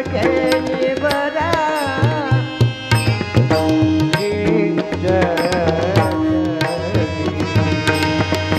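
Devotional bhajan music: a tabla keeps a rhythm under steady held notes, while a singer's wordless melodic runs waver up and down.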